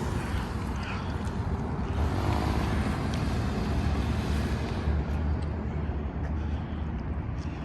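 Steady low hum of a truck's engine with road noise while it is being driven.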